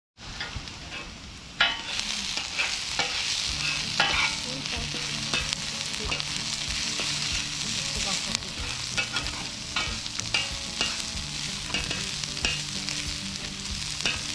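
Taco filling sizzling as it fries in a pan over a wood fire, with scattered clicks and scrapes of a utensil stirring it. The sizzle gets louder about a second and a half in.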